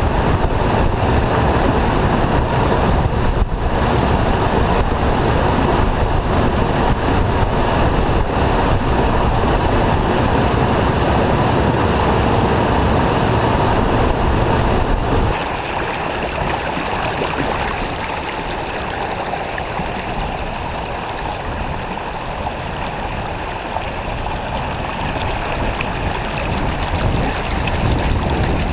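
Steady rush of a river waterfall, with wind blowing on the microphone. The wind rumble drops away suddenly about halfway through, leaving a quieter, steadier rush of water.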